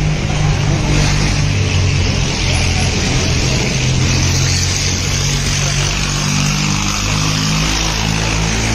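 Tractor diesel engine running loud and steady, its engine note stepping up and down as the revs change.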